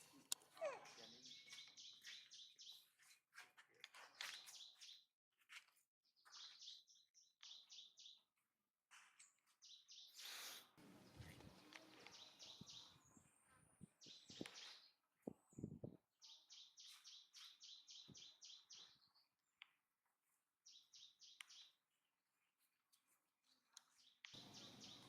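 Faint bursts of short, high-pitched chirping calls, about ten to a second, repeating every few seconds with gaps between, and a few brief knocks or rustles partway through.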